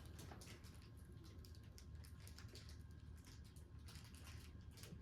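Near silence: a faint low hum with soft, scattered light clicks.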